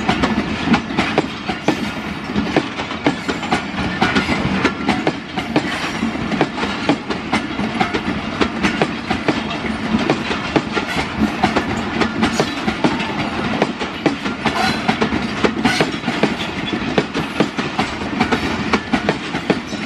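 Passenger coaches rolling past close by: a steady rumble of wheels on rail, with a constant run of clicks and clattering knocks as the wheels cross the rail joints.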